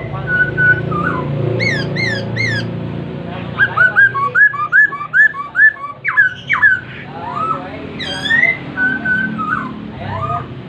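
Poksay Hongkong, a caged laughingthrush, singing loud, varied whistled phrases. About four seconds in it gives a fast run of repeated rising notes, then sliding whistles.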